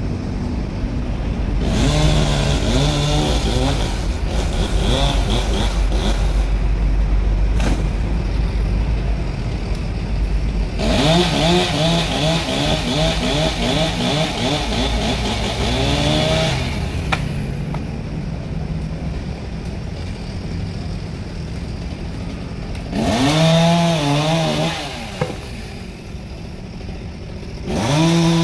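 Two-stroke chainsaw revving in repeated bursts while cutting a large fallen tree, its pitch rising and falling with the throttle. There are bursts about 2 s in, around 11 s, around 23 s and near the end, over a steady low engine rumble in the first half.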